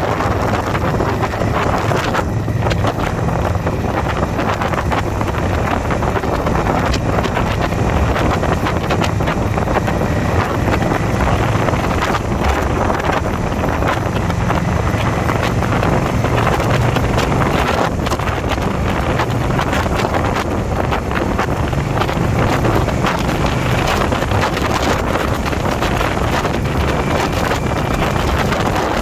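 Wind buffeting the microphone over a motorcycle engine running steadily at riding speed, a constant loud roar with a low engine hum beneath it.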